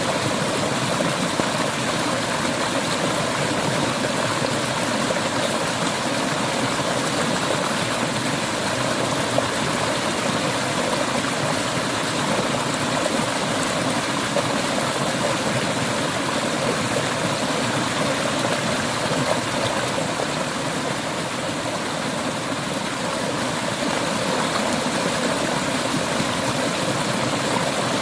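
Clear mountain stream flowing steadily over rocks, a constant rush of water.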